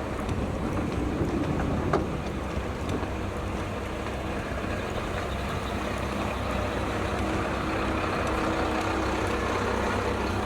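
Diesel railcar engine running at a steady low rumble, with a faint hum joining in partway through and a single click about two seconds in.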